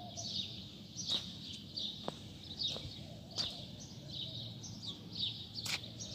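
Small birds chirping busily: short, falling chirps, several a second, over a quiet background, with three faint clicks spread through.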